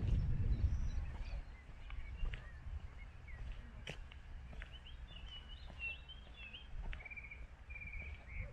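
Songbirds chirping on and off, with a short rapid trill repeated twice near the end. A low rumble fades out in the first second, and a single sharp click comes about four seconds in.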